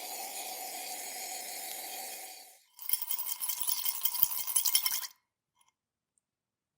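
A steady hiss-like whir for about two and a half seconds, then about two seconds of rapid metallic clinking and rattling that stops suddenly.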